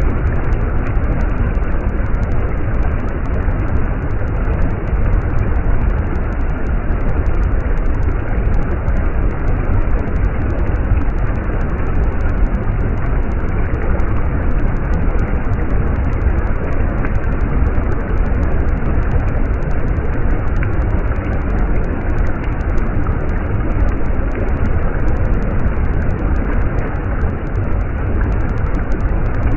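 Stream water running steadily: a dense, even rush with a strong low rumble.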